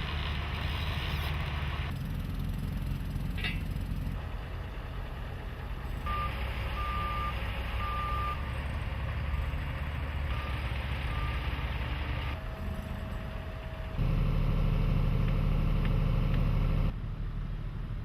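Construction vehicle engines running with a low rumble, the sound changing abruptly every few seconds. A vehicle's reversing alarm beeps several times from about six seconds in, fading after about eleven seconds.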